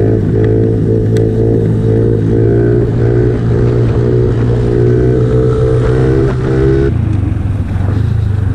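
Pit bike's small single-cylinder engine running steadily under throttle, heard from the rider's GoPro; about seven seconds in the revs drop as the throttle is eased off.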